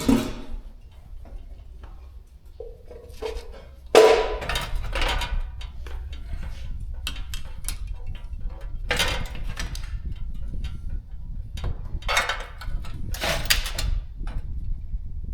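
Several loud metal clanks and scrapes, as of tools and parts being handled on a shop job, over a steady low rumble. The biggest clank, about four seconds in, rings briefly.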